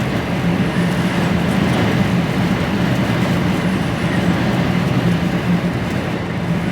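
Steady drone of an HGV lorry's diesel engine pulling uphill, with a continuous rush of road and wind noise, heard from inside the cab.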